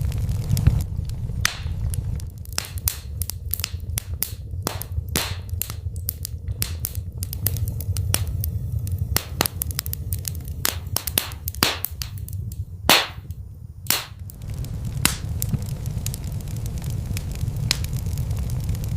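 Wood fire burning in a fireplace: irregular crackles and sharp pops over a steady low rumble of the flames, with the crackling thickest in the middle and two loud pops near the end of that stretch.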